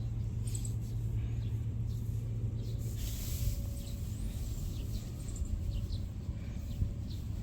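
Outdoor background: a steady low hum with faint brief chirps now and then, like distant birds.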